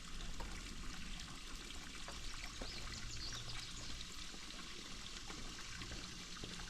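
Swimming pool water trickling and pouring steadily, as from the pool's circulating water.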